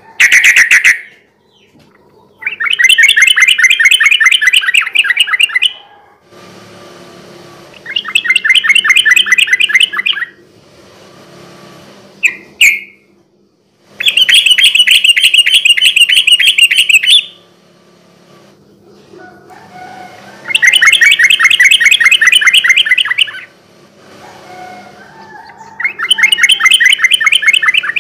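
Yellow-vented bulbul (trucukan) singing in fast rolling trills, each about three seconds long and repeated five times with short pauses between. Brief sharp calls come right at the start and again around the middle.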